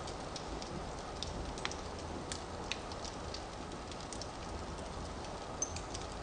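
Firewood burning in a fireplace: a steady low rush of flame with irregular small crackles and pops, and a sharper pop with a brief high squeak about five and a half seconds in.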